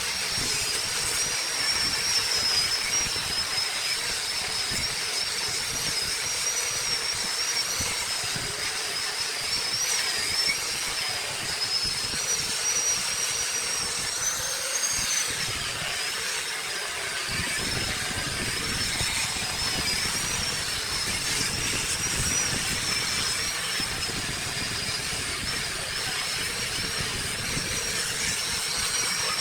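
Wood lathe running, a steady high whine wavering slightly in pitch over a hiss, with a deeper rumble joining a little past halfway.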